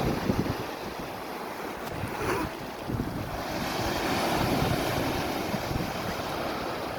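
Sea waves washing, swelling and easing over a few seconds, with wind gusting on the microphone.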